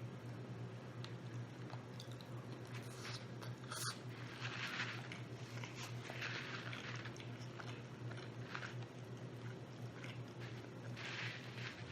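Close-up chewing and biting of rotisserie chicken, with wet mouth noises and small clicks coming in bursts over a steady low hum.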